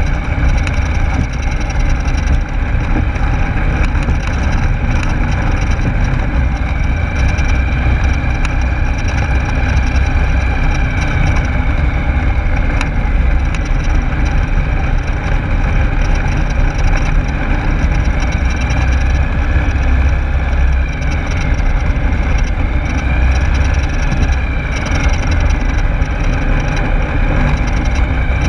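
Rotax 912S flat-four engine and propeller of a Rans Coyote S6 ultralight running steadily, heard loud from inside the cockpit with a faint wavering whine above the engine noise.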